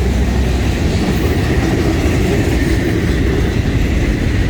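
Freight train of auto rack cars rolling past at a grade crossing: a steady rumble of steel wheels on the rails, with a faint steady high tone over it.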